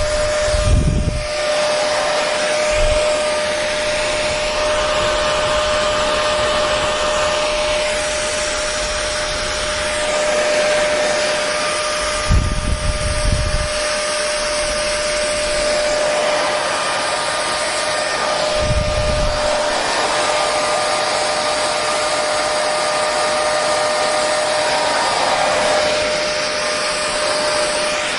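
Hair dryer running steadily: a dense airflow hiss with a constant motor whine. A few brief low rumbles come through, about a second in, around the middle, and again a few seconds later.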